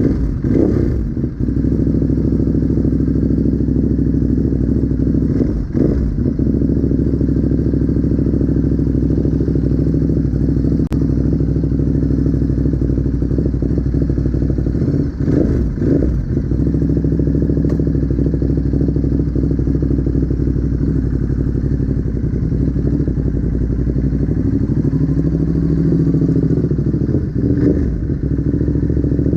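Ducati Monster's V-twin engine running at a steady speed, with a few knocks and clatters; its pitch dips and climbs back up about four-fifths of the way through.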